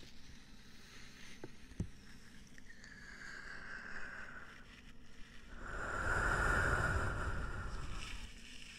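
Close-miked ASMR ear-cleaning sounds: rubbing and scratching right against the microphone in swells, with a couple of light clicks near the start and the loudest, fullest rubbing from about six to eight seconds in.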